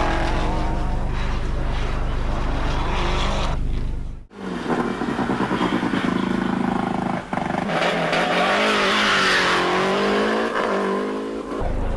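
Rally car engines at high revs in a run of short cuts: the sound breaks off sharply about four seconds in and again about seven seconds in. In the later part the engine note rises and falls under a loud rushing noise.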